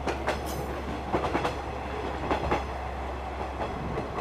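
E353 series electric train rolling past, its wheels clicking over rail joints in small clusters of two or three about a second apart, over a steady low hum.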